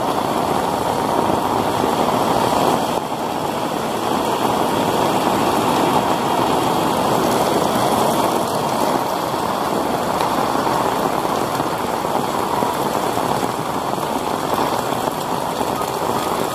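Heavy rain pouring steadily, dipping slightly in level about three seconds in.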